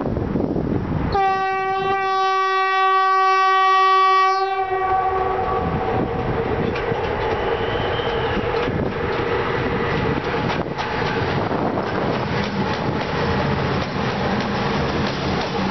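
Electric locomotive's horn sounding one long steady blast of about three and a half seconds as the train comes in, then the locomotive and its double-deck coaches rolling past on the rails with a steady hum and an occasional knock from the wheels.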